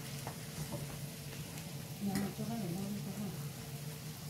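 Shrimp and meat sizzling on the griddle of an electric tabletop grill-and-hotpot cooker, a steady frying sizzle with a few light ticks.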